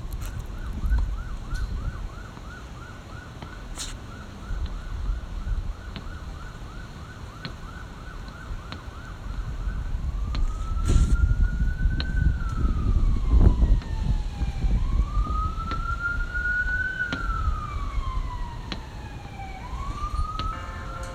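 Electronic siren sounding a fast yelp, about three cycles a second, for roughly ten seconds, then switching to a slow rising-and-falling wail and changing tone again near the end, over a low rumble.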